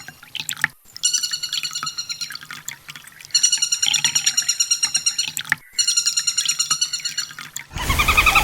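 Sunbird song: a very fast, high trill of repeated notes, given in phrases of about two seconds with short breaks between them. Near the end a louder, harsher trill begins over a hiss.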